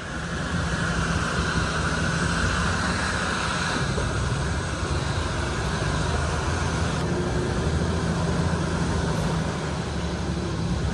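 A vehicle engine running with a steady low drone under constant road and wind noise.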